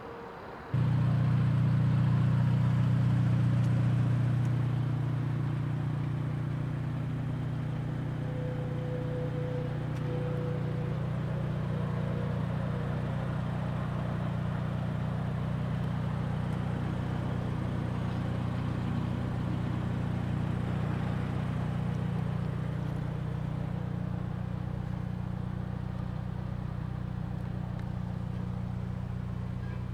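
Turbocharged Scion FR-S's flat-four boxer engine idling steadily. It comes in suddenly about a second in, is a little louder for the first few seconds, then settles to an even idle.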